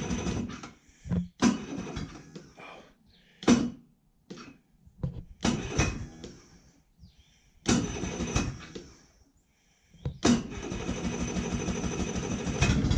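15-horsepower four-stroke Johnson outboard motor cold-started on choke with its electric starter. Four short cranking bursts fail to catch, then about ten seconds in it catches and keeps running steadily after sitting all winter.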